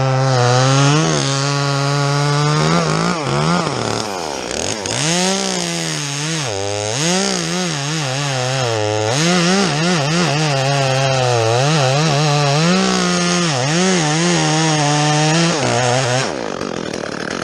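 Two-stroke chainsaw cutting wood with a chain the owner admits was not sharp. The engine revs up and down again and again, and its note drops away about sixteen seconds in.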